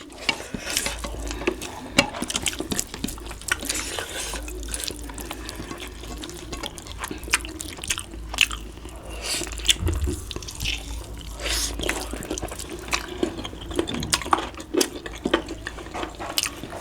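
Wet eating noises: rice and gravy being chewed and handled, with many scattered short clicks and taps.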